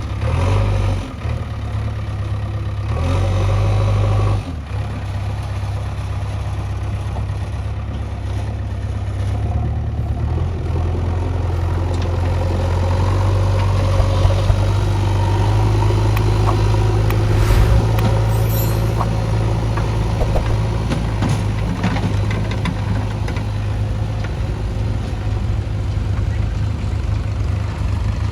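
Heavy diesel engine of a tractor or backhoe loader running steadily with a deep drone. A few sharp knocks come a little past halfway.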